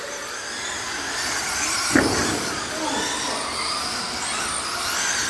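Several radio-controlled race cars running around the track, their motors giving high whines that rise and fall in pitch as they accelerate and slow. There is a sharp knock about two seconds in.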